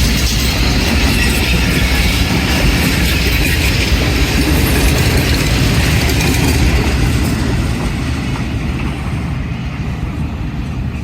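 Train passing close by, its wheels and cars rattling on the track, the noise easing off over the last few seconds as it goes by.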